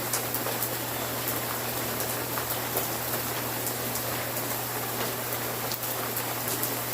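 Steady rain falling, an even hiss with scattered sharp drop ticks, over a faint steady low hum.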